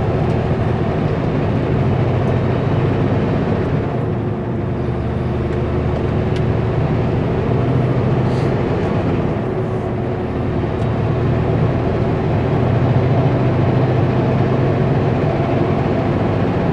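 Kenworth W900L semi-truck's diesel engine running steadily at highway speed, with road noise; the drone eases slightly twice.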